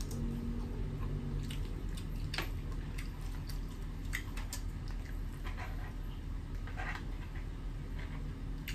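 A person chewing fried chicken close to the microphone: irregular mouth clicks and smacks over a steady low hum.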